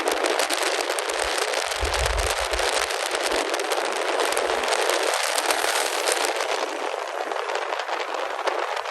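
Wind rushing and crackling over the microphone of a motorcycle riding at speed, a steady hiss with dense crackle and little low rumble.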